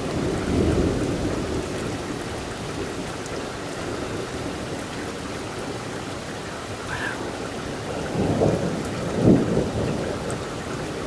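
Steady rain falling through a thunderstorm, with rolling thunder: a rumble near the start and a louder, longer one near the end.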